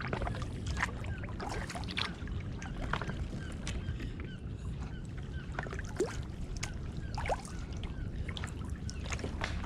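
Kayak paddling: the paddle dipping and dripping, giving scattered small splashes and clicks at uneven intervals over a steady low rumble.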